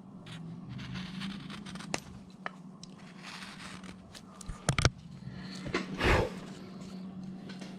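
Wood carving V-tool, a big soft V, pushed by hand through wood in short cuts: scraping and crackling as the slivers come away, with a few sharp clicks and a louder cut about six seconds in. A steady low hum runs underneath.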